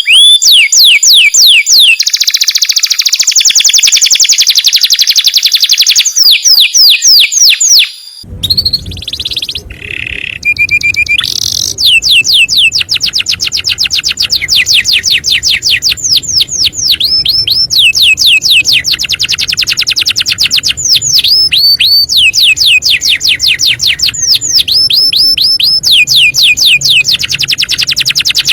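A canary singing long, fast trills of high whistled notes, each sweeping downward, repeated many times a second in runs broken by brief pauses. The song drops out briefly about eight seconds in and resumes with a low hum behind it.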